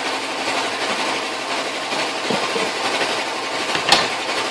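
Steady, fast mechanical rattling with one sharp click about four seconds in.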